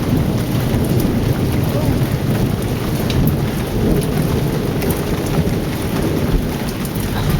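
Heavy rain pouring down during a thunderstorm, a dense, steady rush with a low rolling rumble of thunder underneath and scattered ticks of individual drops.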